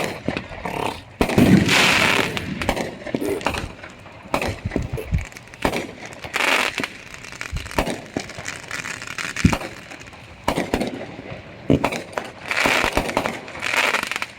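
Fireworks and firecrackers going off: a string of sharp bangs at irregular intervals, with a louder run of crackling bangs about a second in.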